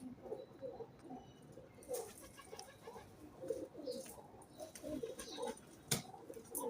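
Pigeons cooing over and over in short, low notes, with a few sharp clicks or taps among them, the loudest about six seconds in.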